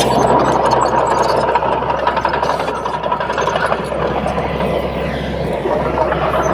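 Komatsu D31P crawler bulldozer's diesel engine running steadily, with a rough mechanical noise and a thin steady whine over it.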